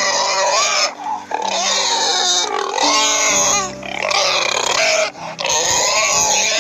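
Pigs squealing: high, wavering calls, with short breaks about a second in, near four seconds and just after five.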